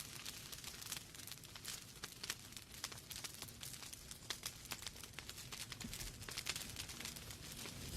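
Wood fire burning in a fireplace: logs crackling and popping in a dense, irregular run of sharp snaps over a steady hiss.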